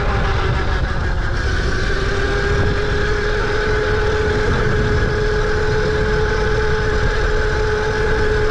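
Tuttio electric dirt bike ridden at steady speed in eco mode, its motor giving a constant whine over a low rumble.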